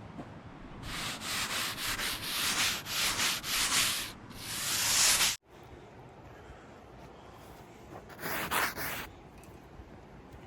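Rough scraping strokes, about three a second, then one longer scrape that cuts off suddenly about five seconds in; one more short scrape comes near the end.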